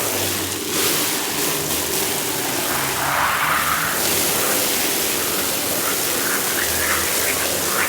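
Steady hiss of a high-pressure water spray over a low motor hum.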